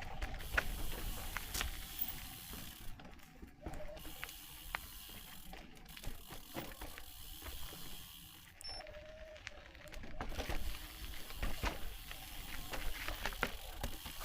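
Footsteps on a rocky trail: irregular clicks and scuffs of shoes on stone over a steady low rumble and hiss.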